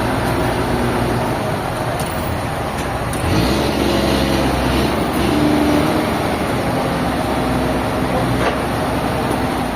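Sawmill machinery running with a steady engine drone that gets louder, its pitch shifting, about three and a half seconds in.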